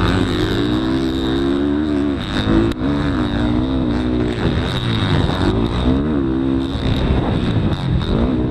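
Motocross dirt bike engine being ridden, its pitch rising and falling over and over as the throttle is opened and closed. There is a single sharp click a little under three seconds in.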